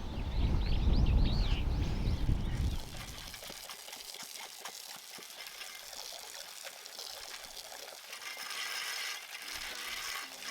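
Rain falling, with many small drops pattering. For the first three seconds a loud low rumble and a few bird chirps sit over it; the rumble cuts off suddenly.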